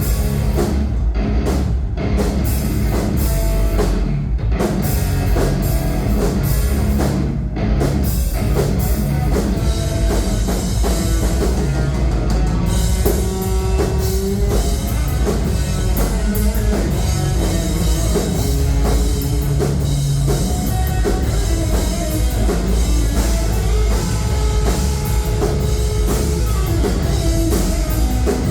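Live heavy rock band playing with drum kit, guitars and bass. Sharp hits are broken by short stops in the first few seconds, then the band plays a fuller, unbroken passage from about halfway.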